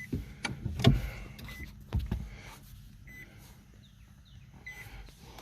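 A short, high electronic beep from a Nissan Leaf's cabin repeats evenly about every one and a half seconds, four times, over a low steady hum. A few dull knocks come in the first two seconds.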